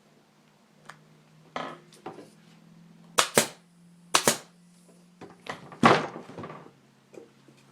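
Staple gun firing staples through a motorcycle seat cover into the seat pan: sharp cracks in quick pairs about halfway through, then a couple more shortly after.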